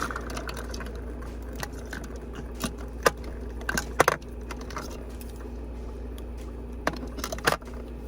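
Lipsticks, eyeliners and other small makeup items clicking and clattering as they are set into a makeup organizer: a scattering of sharp clacks, the loudest about three and four seconds in, with a few more near the end.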